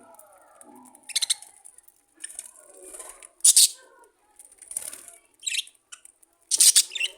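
A group of budgerigars chattering with soft warbling calls, broken by several short, loud, scratchy bursts, the loudest about halfway through and near the end.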